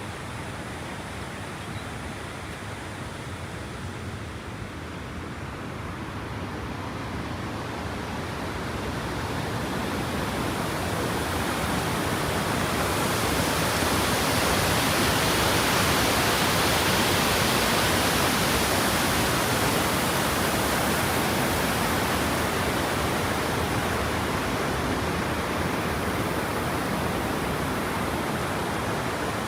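Waterfall: a steady rush of falling water that grows louder to a peak about halfway through, then eases slightly.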